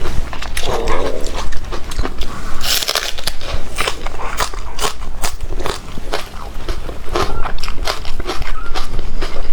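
Close-miked crunching and chewing of food in the mouth, with many sharp, irregular crunches and a brief hiss about three seconds in.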